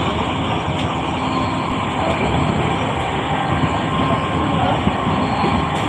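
Moving passenger train heard from inside the coach: a steady, even rumble of the carriage and its wheels on the rails.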